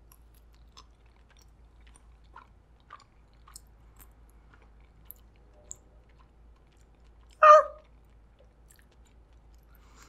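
Quiet, close-up chewing of a mouthful of soft mac and cheese, with scattered small mouth clicks and smacks. About seven and a half seconds in comes one short, loud vocal sound.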